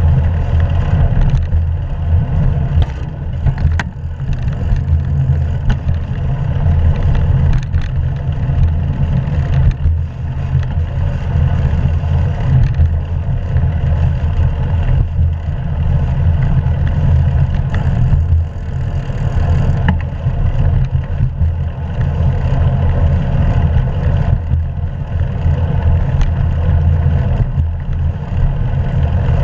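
Steady, loud low rumble of wind and road noise on the camera of a moving bicycle, with a fainter hiss above it.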